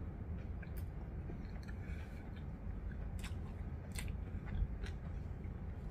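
A person chewing a mouthful of food with the mouth closed, close to the microphone: scattered soft mouth clicks over a low steady hum.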